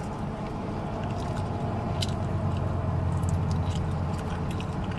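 A person chewing and gnawing barbecued rib meat, with scattered soft wet clicks and smacks, over the steady low hum of the car's engine idling.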